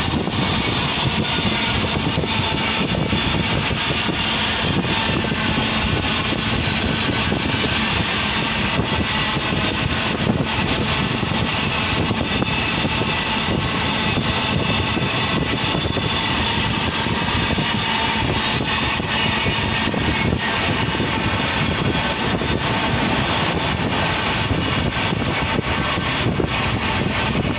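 Steady running noise of a train heard from on board: the rush and rumble of wheels on the rails and wind, as it runs alongside a freight train of open wagons on the next track.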